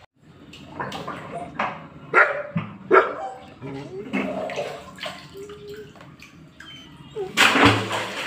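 A dog barking several times amid voices, with a short loud rush of noise near the end.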